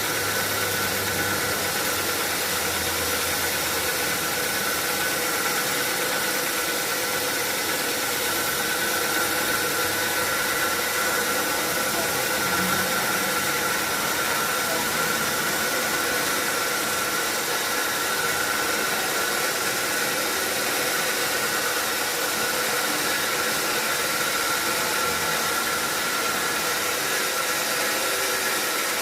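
Sawmill machinery running steadily: a constant mechanical hum and hiss with a steady high whine, unchanging throughout.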